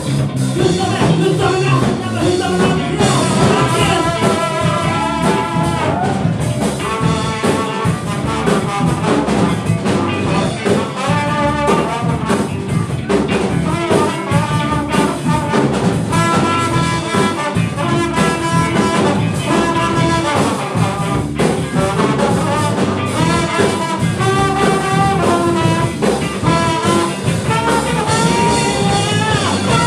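Funk band playing live, a brass section sounding held notes and short melodic lines over a steady drum beat.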